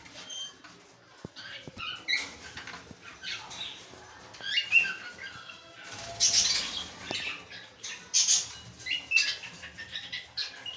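Fischer's lovebirds calling: many short, sharp chirps and squawks at irregular intervals, with several louder, noisier bursts in the middle and toward the end.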